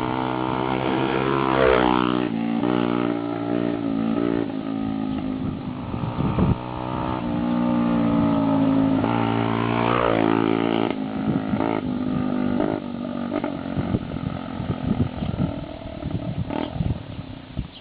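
Yamaha XT125R's single-cylinder four-stroke engine running with no exhaust silencer, only a short square tube, blipped up in revs twice. Near the end it drops to a ragged idle with irregular sharp pops.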